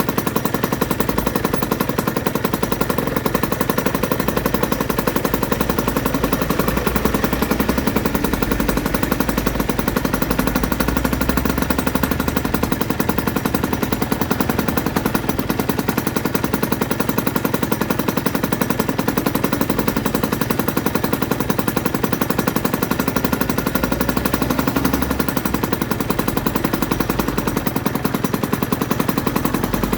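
Aprilia RS125's single-cylinder two-stroke engine running steadily, its exhaust giving a fast, even stream of rapid pulses.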